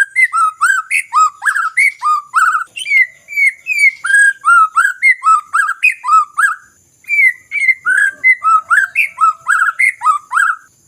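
White-rumped shama (murai batu) singing a fast string of loud, short whistled notes, several a second, each sliding in pitch, with a brief break about two-thirds of the way through. This is the fast, aggressive song used as a lure track to provoke a quiet shama into singing.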